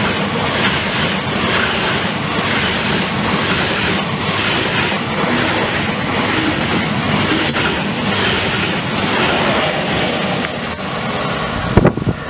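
German ICE high-speed train passing close by at speed, a steady rushing noise of the carriages and wheels on the track. Near the end the sound changes, with a couple of sharp thumps.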